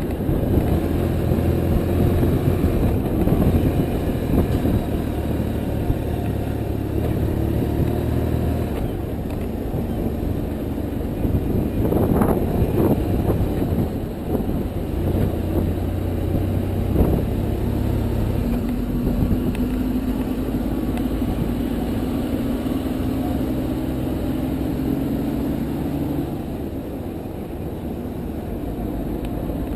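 BMW R1150RT's boxer-twin engine running, a low drone that steps up and down in pitch a few times, over a steady rushing noise. Brief louder noises stand out about twelve and seventeen seconds in.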